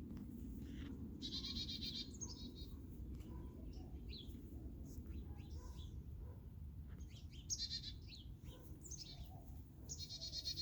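Chickadees calling: three harsh, buzzy runs of 'dee' notes with short chirps between them. This is typical scolding, which the gardener takes as the birds telling her she is too close to their feeder.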